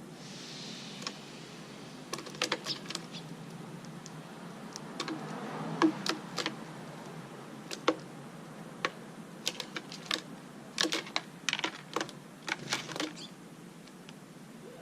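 Irregular light clicks and taps, some in quick clusters, over a faint steady background hiss.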